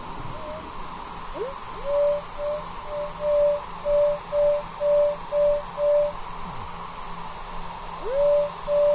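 Metal detector sounding a mid-pitched target tone over a buried coin that turns out to be a nickel. The tone slides up, then repeats as short beeps about two a second, stops, and returns near the end with another upward slide.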